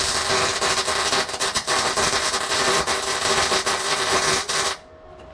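Wire-feed (MIG) welder arc crackling steadily while laying a weld bead, stopping abruptly near the end. The weld is judged to need a little more heat.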